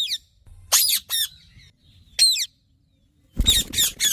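Indian ringneck parrots giving short, harsh squawks, single calls spaced about a second apart, then a quick run of several near the end. That run opens with a low thud.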